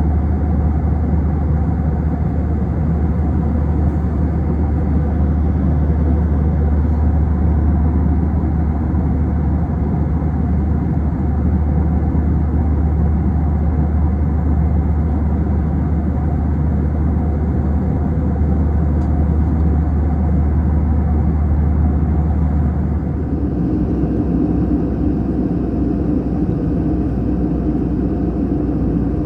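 Airbus A321 cabin noise: the steady, loud drone of the jet engines and airflow heard from inside the passenger cabin. Near the end, the deep drone lightens and a steady mid-pitched hum comes in.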